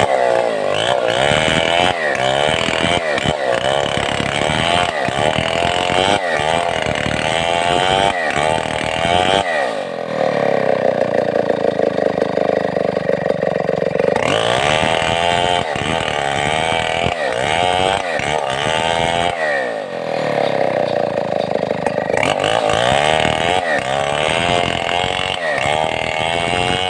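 Stihl 070, a large two-stroke chainsaw, running at high revs while ripping a mahogany log lengthwise into planks. The engine pitch wavers up and down as the chain loads and frees in the cut, and settles into a steadier, lower note twice, about ten seconds in and about twenty seconds in.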